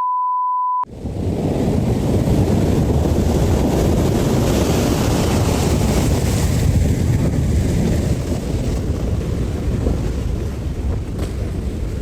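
A short high beep, then loud storm wind buffeting the microphone in a steady, deep rushing roar.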